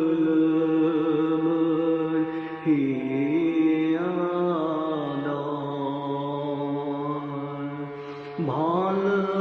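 Meditative chanting: a voice holds long, steady notes over a continuous low drone. The voice dips and swells back in about three seconds in, and again near the end.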